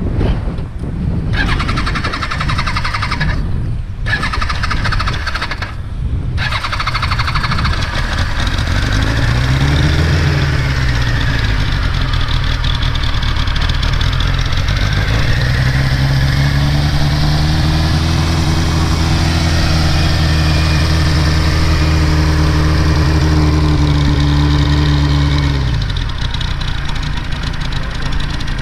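Kawasaki Z1-R's air-cooled inline-four, breathing through Keihin CR carburettors and an NGC exhaust, running after start-up. The note is uneven for the first few seconds and is revved once about ten seconds in. From about the middle it is held at raised revs for some ten seconds, then drops back to idle near the end.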